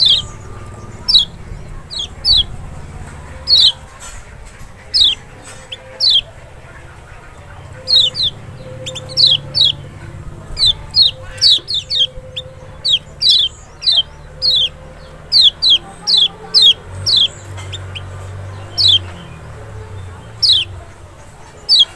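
Kecial (lemon-bellied white-eye) giving loud, short, sharp high chirps that slide downward. They come one or two a second at an irregular pace.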